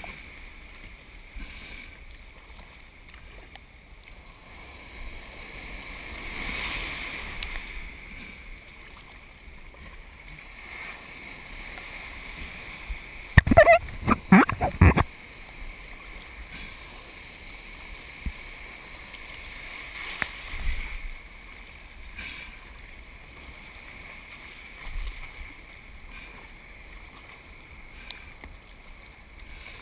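Steady rush of wind and surf water while surf kayaking, with a loud burst of knocks and splashing lasting about a second and a half around the middle, and a few smaller knocks later.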